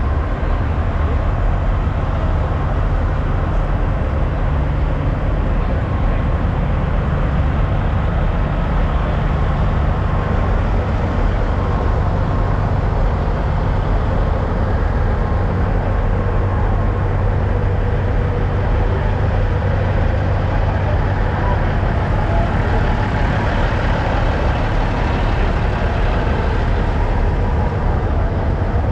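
Diesel engines of semi trucks idling: a steady low rumble.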